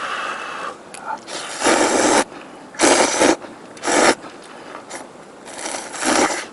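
Instant ramen noodles being slurped in several short noisy pulls, separated by pauses.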